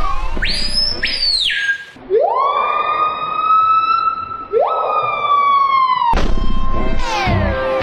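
A bird screaming: a short, high screech, then two long screams that each rise sharply in pitch and hold, the second starting about four and a half seconds in. Near the end a pattern of crossing rising and falling tones starts up.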